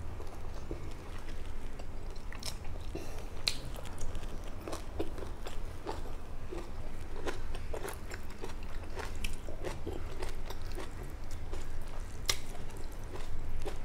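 A person chewing food close to the microphone, with small crunching clicks at an uneven pace over a steady low hum.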